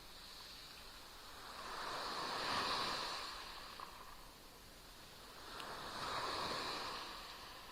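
Small waves lapping and splashing on the shore of a sea bay, two gentle swells in turn, one peaking a little under three seconds in and another past six seconds, with faint trickling between them.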